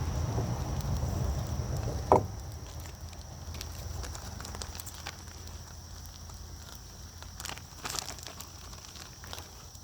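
Breakfast frying in a pan, crackling with scattered pops, and a single sharp knock about two seconds in.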